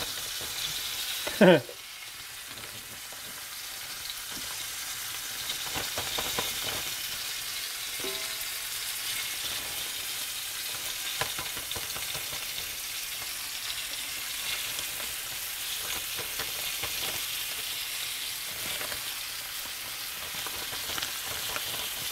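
Pieces of flour-dredged snapping turtle meat sizzling as they fry in hot oil in a cast-iron skillet. About a second and a half in comes a brief, loud sound that falls steeply in pitch.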